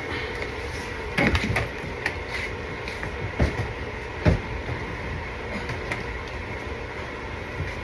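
Scattered knocks and clatter from installation work, with a short burst of rattling about a second in and two sharper single knocks a few seconds later, over a steady background hum.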